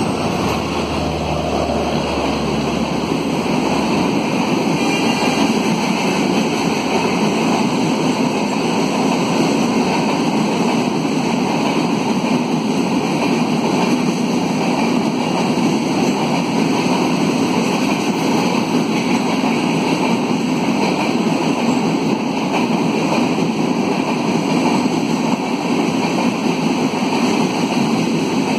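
Rajdhani Express passing at speed without stopping: a loud, steady rushing noise of the coaches' wheels on the rails and the air they push. A low hum from the locomotive fades out about four seconds in.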